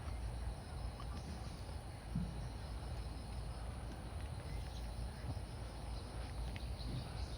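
Outdoor ambience: a steady low rumble with faint insects chirping high above it and a few soft ticks.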